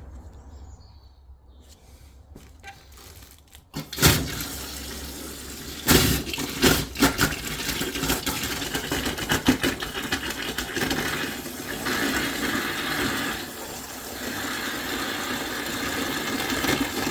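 Water rushing from a supply pipe as it is flushed out before the new mixer tap is connected, turned on suddenly about four seconds in and running steadily, with a few knocks and clatters soon after it starts.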